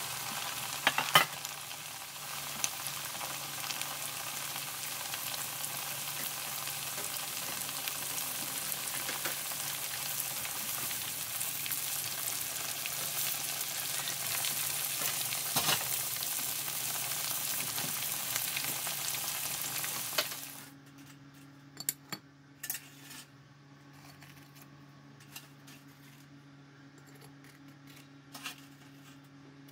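Breaded pork cutlets deep-frying in a pan of hot oil: a steady sizzle with a few sharp clicks of metal tongs. About two-thirds of the way through the sizzle cuts off suddenly, leaving a quiet room with a few light clinks.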